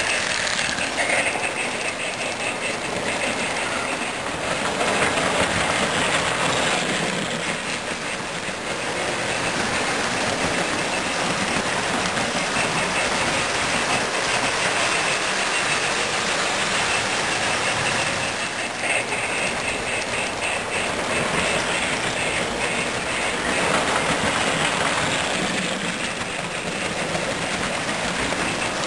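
Model electric train clattering around its track, a steady metallic rattle of wheels and motor that grows louder several times as the train passes close by.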